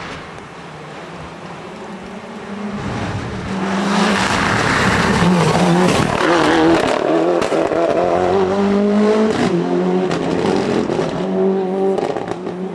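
Rally car engine approaching and passing at full speed, its note rising and falling through gear changes, with sharp crackles through the loudest part.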